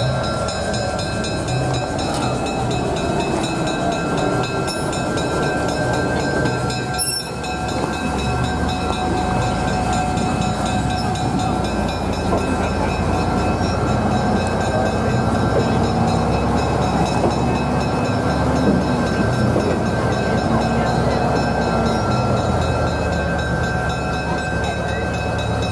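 A train running: a steady, continuous mechanical sound with several high, steady whining tones over it.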